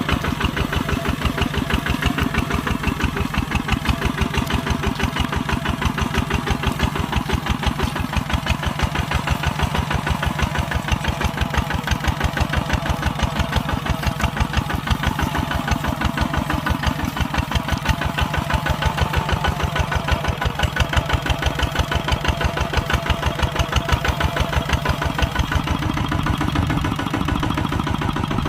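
Kubota tractor's diesel engine running steadily with an even, rapid pulsing beat.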